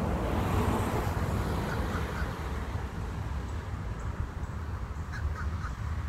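A bird calling in short, repeated notes, a few at a time, over wind rumbling on the microphone.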